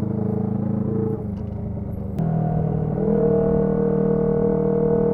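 Honda CB125T's air-cooled parallel-twin engine running through a noisy muffler while riding. The note changes about a second in and again about two seconds in, then runs louder and steady from about three seconds in.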